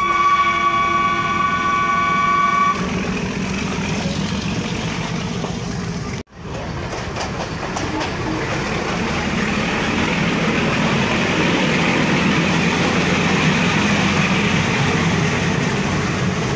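Locomotive horn of the Nilgiri Mountain Railway toy train sounds one steady note for about three seconds at the start. After it comes the train's running noise heard from a carriage, a dense steady rumble that cuts out for an instant about six seconds in and grows a little louder in the second half.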